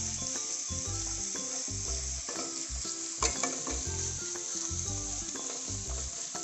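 Ginger-garlic paste frying in hot oil in a non-stick kadai: a steady sizzle while a spatula stirs it, with one sharp tap of the spatula on the pan about three seconds in. A background tune of stepping low notes plays underneath.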